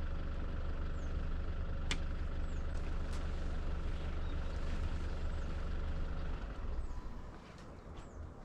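A vehicle engine idling with a steady low hum that cuts off about six seconds in, with small birds chirping faintly.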